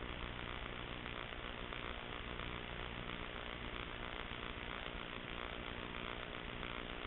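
Steady hum with hiss, unchanging throughout.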